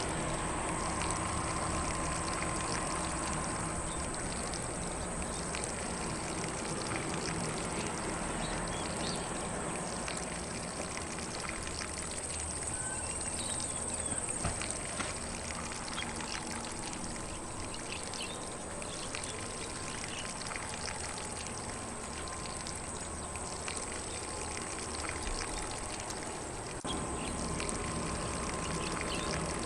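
Lawn sprinkler spraying water over grass: a steady hiss and patter of water, with faint birdsong.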